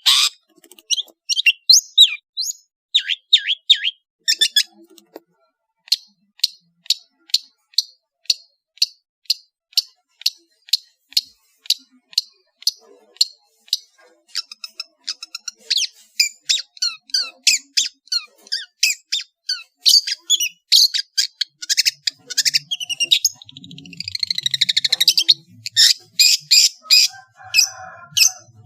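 Long-tailed shrike (cendet) singing a varied song: a long run of short, sharp, high notes, often several a second, broken about 24 seconds in by a harsh buzzy chatter.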